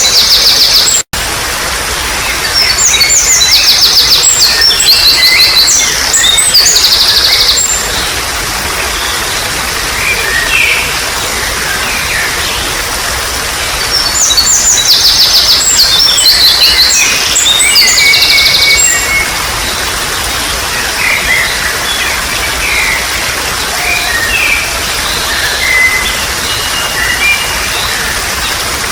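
Steady trickling water with a songbird singing long bursts of rapid, high, chattering notes, two long song phrases with shorter calls between them. The whole sound cuts out for an instant about a second in.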